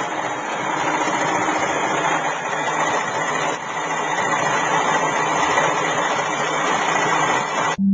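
Homemade neodymium-magnet electric motor running at high speed, a steady noisy whir with a faint high tone, cutting off suddenly near the end.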